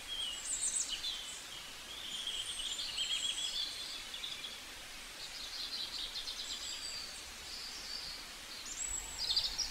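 Faint birds chirping and trilling in short high phrases over a low background hiss.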